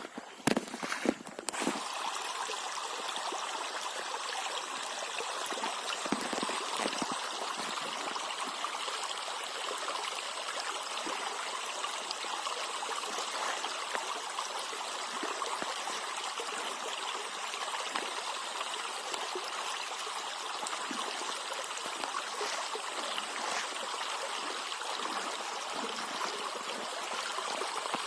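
River water flowing and rushing steadily, with a few sharp knocks or splashes in the first couple of seconds.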